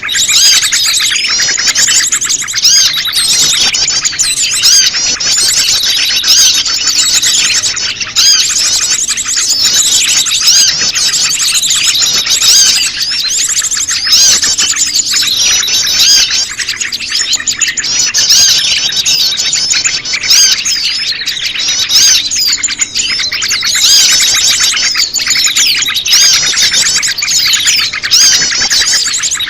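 Bird-lure recording of prenjak lumut calls mixed with the chattering of a noisy flock of small birds, made to draw small birds in. Many rapid, overlapping high chirps and trills run on without a break.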